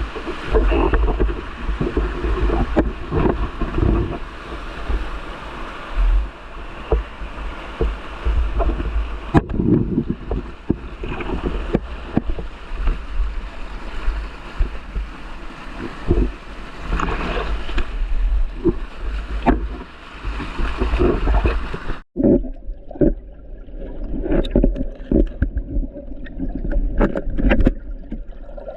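Water sloshing and gurgling with irregular splashes over a steady low rumble. About 22 seconds in, the sound breaks off and comes back thinner and less hissy.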